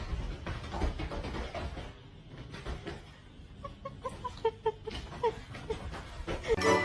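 An animal making a series of short, soft calls, about ten in quick succession, starting a little past halfway, over low rustling.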